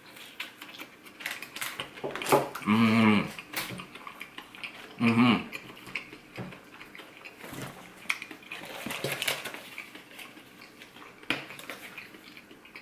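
Close-up crunching and chewing of a crispy deep-fried corn dog, many small crisp crackles, with two short hummed "mmm" sounds about two and a half and five seconds in.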